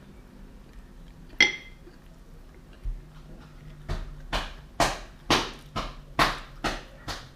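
A single sharp clink of tableware with a brief ringing tone, about a second and a half in. From about four seconds, eating a sushi roll gives about eight crisp chewing crunches at a steady pace of about two a second.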